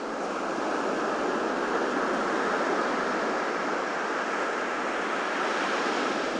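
Ocean surf washing onto a beach: a steady rushing wash that swells slightly just after the start and holds.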